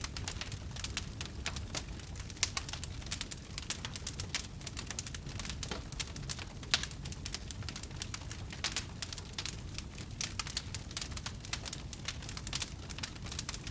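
Campfire burning wood, with dense, irregular crackles and snaps over a low rumble and a couple of louder pops.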